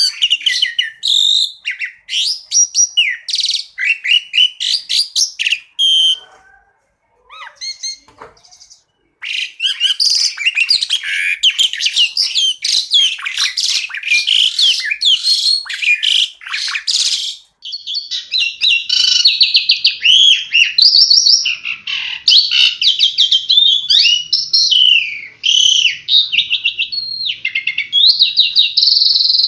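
Asian pied starling (jalak suren) singing a fast, varied song of chirps, whistles and rapid trills, with a short break about seven seconds in.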